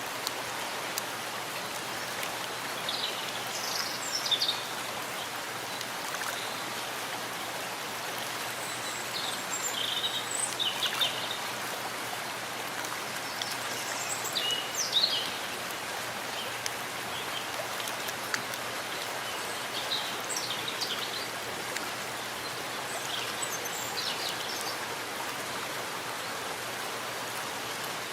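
Steady rain falling in a forest, an even hiss of drops on leaves. Short bird chirps cut through the rain about five times.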